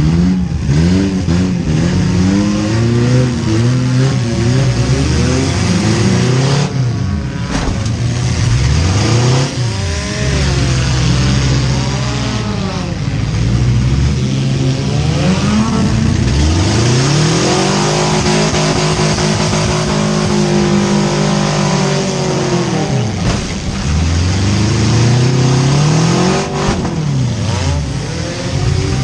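Demolition derby cars' four-cylinder engines revving hard, pitch climbing and falling over and over as the cars accelerate and back up, with a few loud bangs of collisions.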